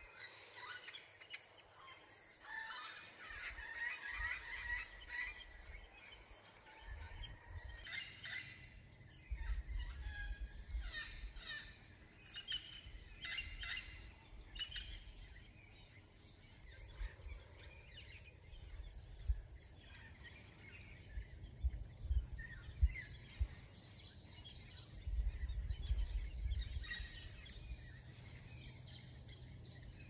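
Many wild tropical forest birds chirping and calling, short overlapping calls throughout, over a steady high hiss, with occasional low rumbles.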